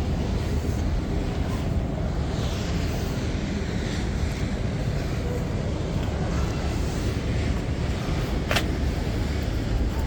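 Steady low rumble of wind on the microphone over outdoor background noise, with one sharp click near the end.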